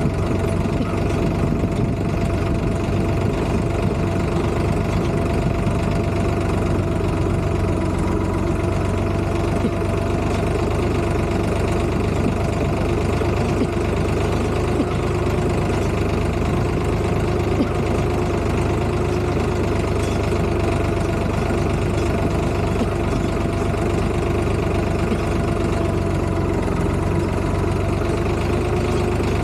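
Tractor engine running steadily, with an even, unchanging pitch.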